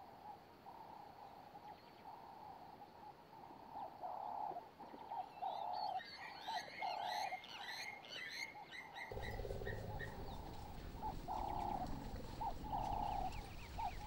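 Faint wildlife ambience: short calls repeat at one pitch throughout, with birds chirping from about five to nine seconds in. A low steady rumble comes in about nine seconds in.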